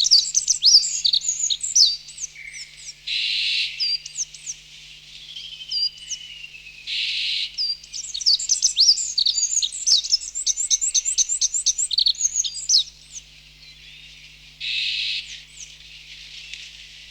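Birds chirping in quick runs of short, sharply falling notes, densest in two spells. Several bursts of hiss about a second long break in between the runs.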